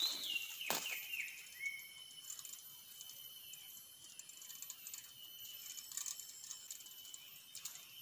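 A bird calls a quick run of whistled notes that fall in pitch over about two seconds, over a steady high-pitched drone. A couple of sharp knocks at the very start come from the wooden trap cage being handled.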